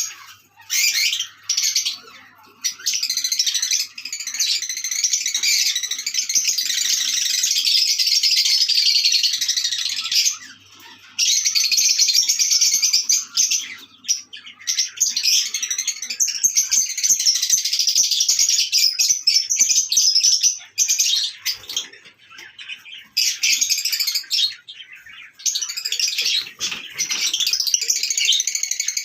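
Lovebirds chattering and chirping in a dense, high-pitched flurry, broken by a few short pauses.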